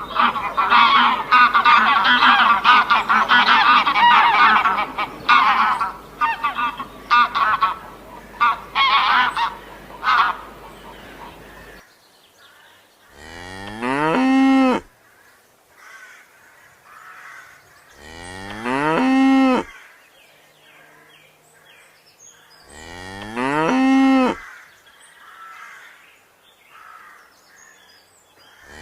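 A flock of geese honking, many calls overlapping, for about ten seconds. Then a cow moos three times, long calls about five seconds apart, each rising in pitch.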